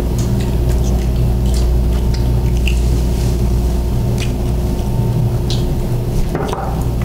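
Wet chewing and squishy mouth sounds of people eating sushi, with scattered small clicks, over a steady low hum.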